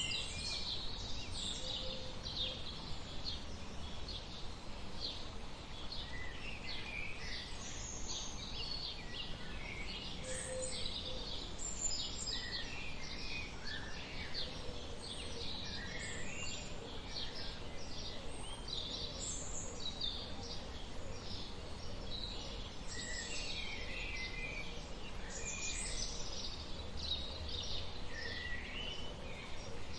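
Many birds chirping at once: a dense, continuous chorus of short high calls over a steady low background rumble.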